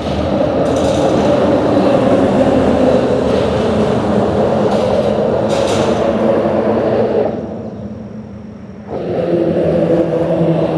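Vehicles crossing a bridge: a loud, steady drone of tyre and engine noise with a low engine hum. It fades about seven seconds in and comes back abruptly near nine seconds.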